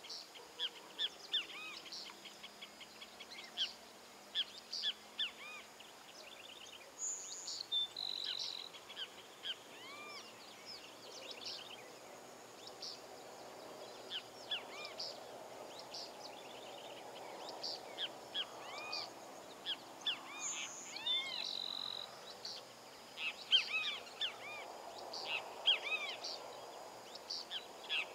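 Wild birds chirping and singing in quick, arching notes, with one bird twice giving a short high note followed by a held lower whistle.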